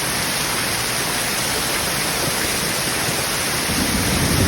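Steady rushing water noise from heavy rain or falling water. A low rumble builds in underneath near the end.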